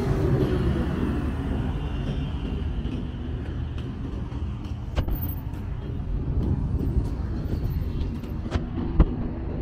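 Street traffic rumbling, loudest as a vehicle passes in the first second and then easing off. Two sharp knocks cut through, one about halfway and a louder one near the end.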